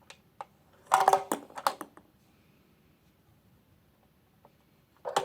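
Hard plastic toy pieces clicking and clattering. There are a couple of single clicks, then a short cluster of knocks and clatter about a second in.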